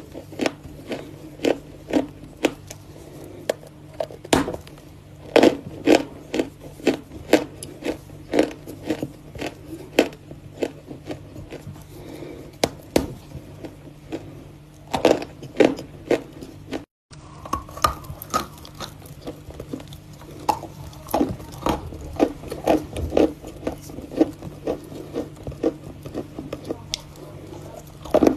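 Pieces of Volokonovka chalk being bitten and chewed: a steady run of crisp cracks and crunches, two or three a second, with a brief cut-out about two-thirds of the way through.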